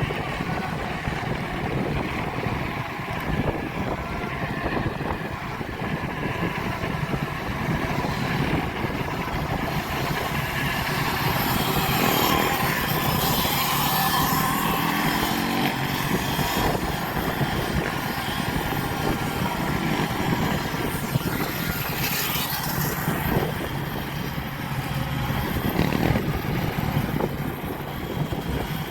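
Motorbike and dirt bike engines running, with rising and falling engine notes near the middle of the stretch.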